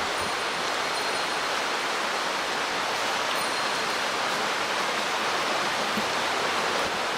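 Mountain stream rushing steadily, a constant hiss of running water.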